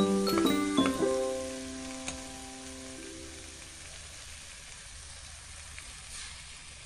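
Eggplant pieces sizzling as they fry in oil in a pan, a steady hiss. Keyboard background music rings over the first few seconds and fades out.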